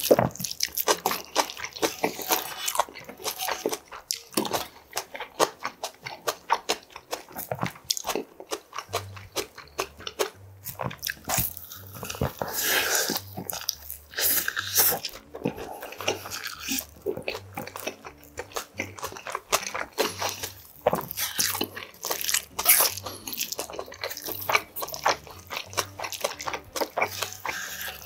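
Close-miked chewing of mouthfuls of budae bokkeum: a dense run of quick, wet, crunchy clicks of the mouth working the food.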